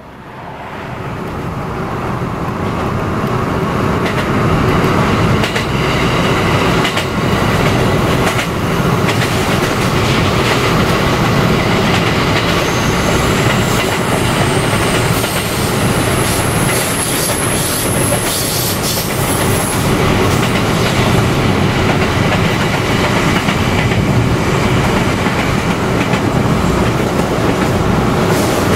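JR 285 series electric sleeper train running at speed, heard from a car driving alongside: a steady loud rumble with scattered clicks of wheels over rail joints and a thin high squeal about halfway through. The sound fades in over the first few seconds.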